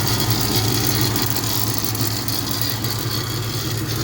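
Car engine idling steadily, with the rattling noise the owner is chasing; he thinks it comes from a loose, leaking exhaust flange.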